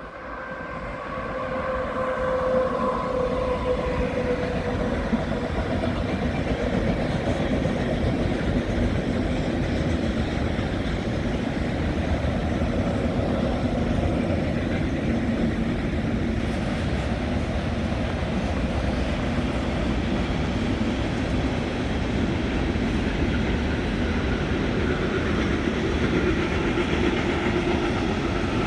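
A train running past on the rails, its wheels giving a steady loud rumble with some clickety-clack. It swells over the first couple of seconds, with a whine falling in pitch, and then holds for the rest of the time.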